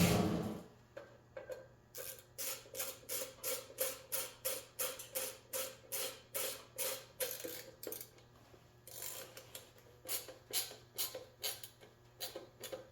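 Ratcheting tool clicking in steady strokes, about three clicks a second, in two runs with a short pause between, as a fastener is tightened.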